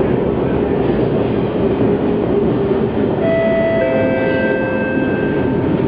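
MRT train running, heard from inside the carriage as a loud, steady rumble. A squeal of several high tones joins about halfway through and lasts about a second and a half.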